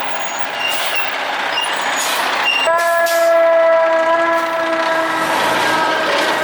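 A fire truck's air horn comes in about three seconds in and is held as one long chord over the noise of the moving truck.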